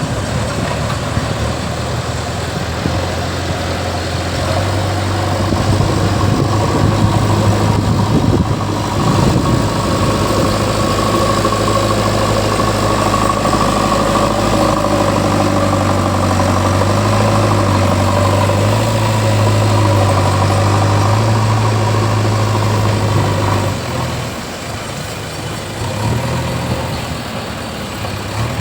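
JCB 3DX backhoe loader's diesel engine running, working harder from about four seconds in and dropping back toward idle near the end.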